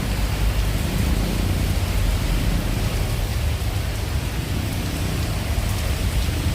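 Steady rain falling, an even hiss with a heavy low rumble underneath.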